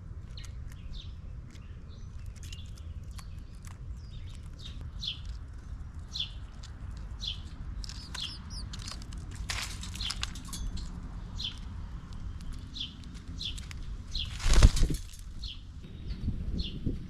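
A small bird calling over and over with short, high, falling chirps, about one a second, over a low steady rumble. About fourteen and a half seconds in comes a brief loud whoosh.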